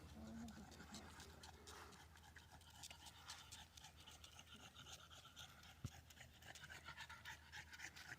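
Faint panting of a dog, quick and irregular, over near silence.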